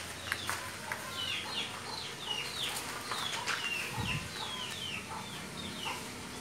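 Birds chirping steadily: a run of short, falling chirps, about two or three a second. A few light clicks and a soft low thump about four seconds in.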